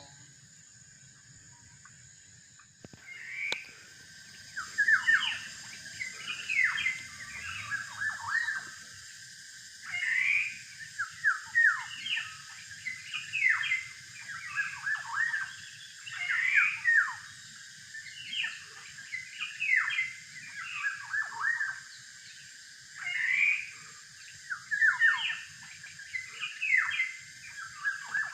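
Kepodang (black-naped oriole) calling over and over, a string of short downward-sweeping notes in clusters every second or two, beginning about three seconds in.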